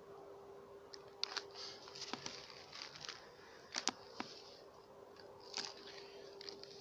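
Faint, irregular crackling and clicking, a few sharp snaps among short hissy rustles, over a steady low hum.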